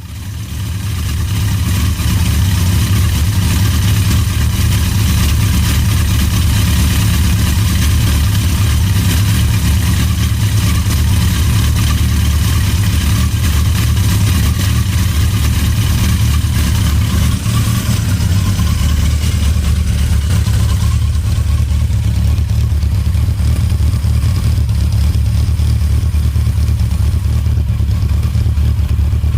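Yamaha XJ750E's air-cooled inline-four engine idling steadily. It fades in over the first couple of seconds.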